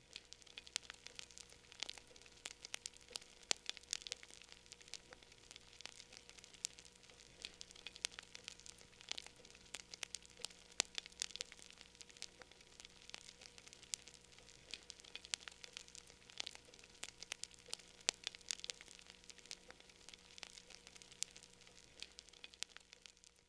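Wood fire crackling in a fireplace: faint, irregular pops and snaps, several a second.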